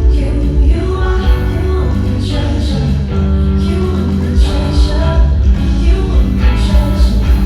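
Loud live band music with a singer over heavy, steady bass, heard from backstage.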